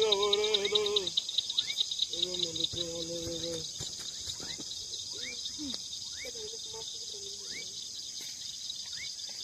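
A steady, fast-pulsing chorus of crickets or other night-calling insects, with short rising chirps repeating about once a second and low voices murmuring at times.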